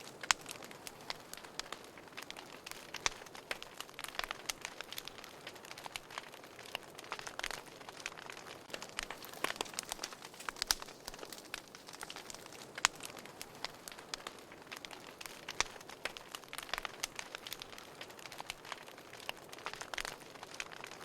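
Wood fire crackling in a fireplace: many sharp, irregular pops and snaps over a soft steady hiss of burning.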